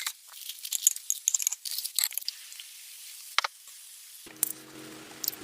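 Irregular crisp crackling and crunching during the first two seconds, then a steady hiss. A low steady hum comes in near the end.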